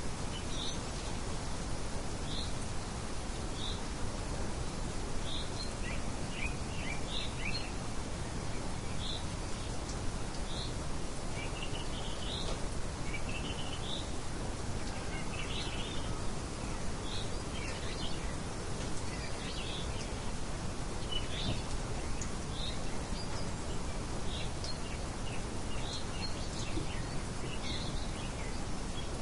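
Steady light wind noise with small birds chirping over it: short high chirps about once a second, now and then in quick runs of several.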